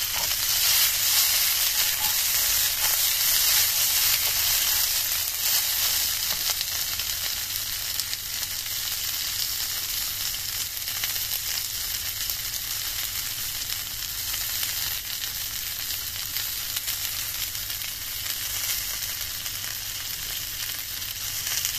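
Large-pod snow peas sizzling steadily in oil in a nonstick frying pan. The sizzle is a little louder for the first few seconds, then settles to an even level.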